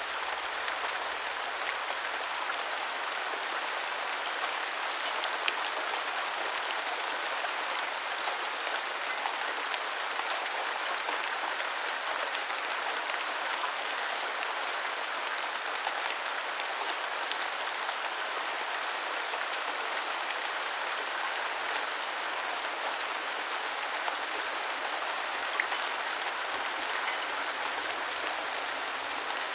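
Steady rain falling on a surface, an even hiss with occasional sharper drop ticks.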